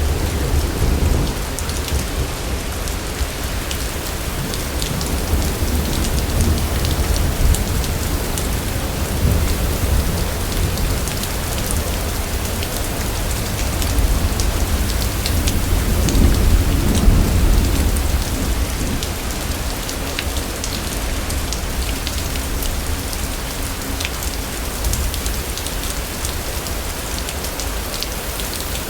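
Steady rain falling with rolling thunder, the rumble swelling as it begins and again about halfway through.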